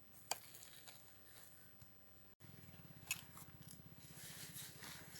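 Faint sharp clicks and rustling, as of small objects being handled, with a low steady hum coming in after a brief dropout about two seconds in.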